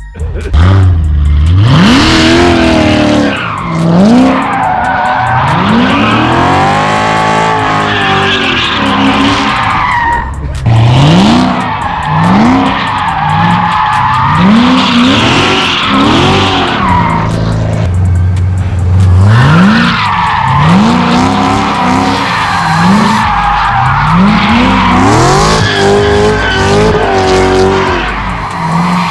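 Turbocharged LS V8 pickup engine revving hard over and over, its pitch climbing and falling back every couple of seconds, with tires squealing.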